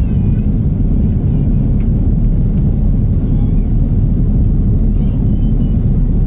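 Steady low rumble of the Airbus A330-900neo's jet engines during its takeoff, loud and unchanging.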